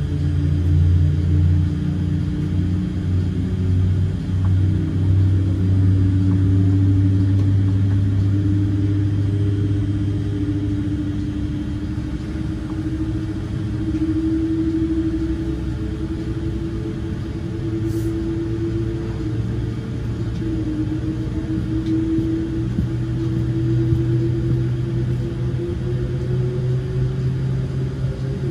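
Cabin noise of a Boeing 787-8 taxiing: a steady low rumble from its GE engines, with a humming tone that slowly drifts up and down in pitch.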